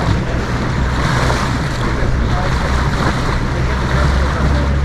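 A tour boat's motor running steadily under way, with water rushing past the hull and wind buffeting the microphone.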